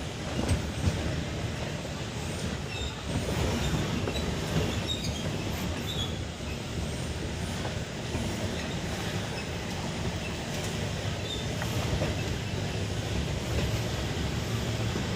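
Off-road truck engine running steadily with a low rumble, working up a steep slope.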